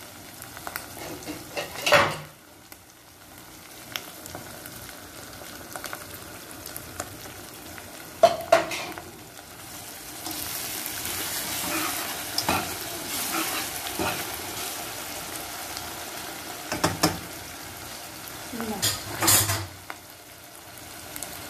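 Blended green chilli sambal sizzling as it fries in oil in a ceramic-coated pot. A metal slotted spatula stirs and scrapes through it and knocks sharply against the pot several times. The sizzle grows louder through the middle.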